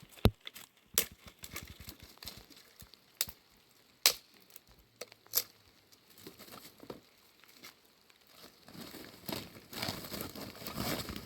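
Rustling and crinkling handling noise with scattered sharp snaps or clicks, the loudest about a third of a second in, and denser rustling near the end.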